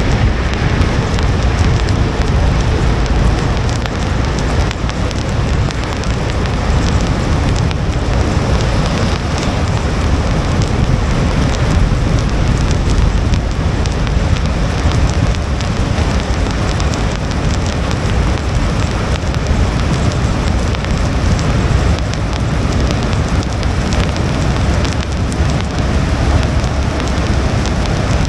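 Steady rain hissing and pattering on a moving car's windshield, over a continuous low rumble of tyres on wet pavement.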